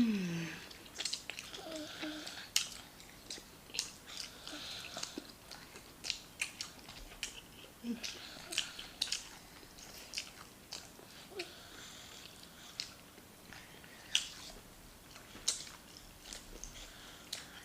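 Close-miked chewing with wet mouth clicks and lip smacks scattered throughout. A short, falling "mm" of enjoyment comes right at the start.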